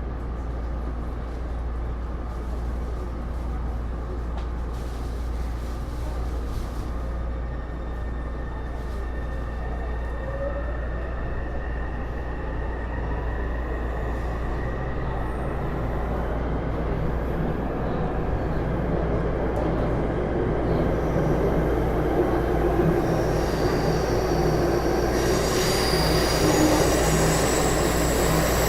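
Taipei Metro C301 train, refitted with Bombardier IGBT-VVVF traction control, heard from inside the car as it accelerates. The inverter and traction-motor whine rises steadily in pitch while the running noise grows louder. Thin high-pitched tones join in near the end.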